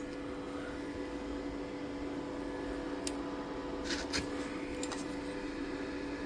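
A steady machine hum, like a fan motor running, with a few light clicks and knocks about halfway through.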